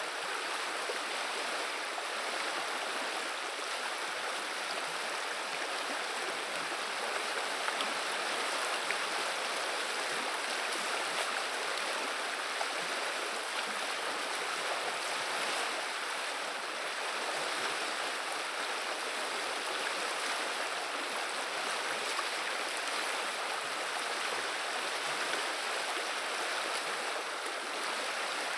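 The Viliya river flowing, its water babbling in a steady, unbroken rush.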